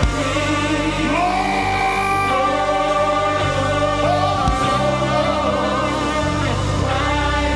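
Live gospel worship music: voices singing long, sliding notes over a band with steady bass and keyboard chords.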